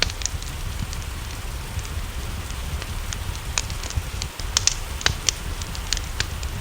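Wood fire crackling, with irregular sharp pops and snaps, over a steady low rumble and hiss of rain.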